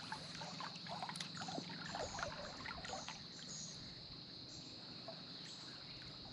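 Shallow creek water trickling and splashing, busiest in the first few seconds, over a steady high-pitched insect drone.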